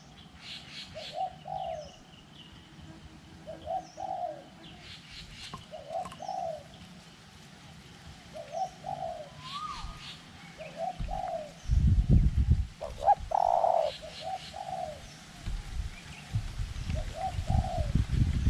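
Spotted dove cooing, its short phrases repeating every second or two, while a smaller bird chirps high above it. From about two thirds of the way in, gusts of wind rumble on the microphone.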